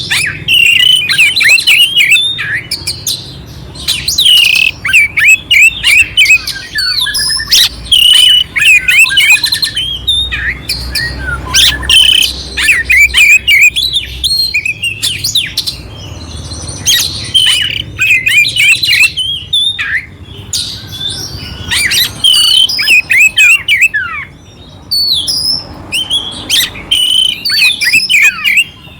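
Oriental magpie-robin (kacer) singing: loud, rapid phrases of chirps, whistles and rough harsh notes, broken by short pauses.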